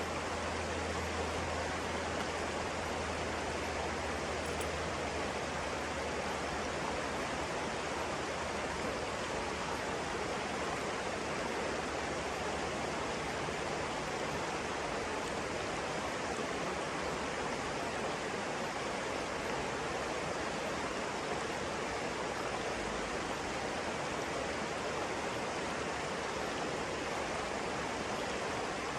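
Flowing water rushing steadily, an even continuous noise with no breaks.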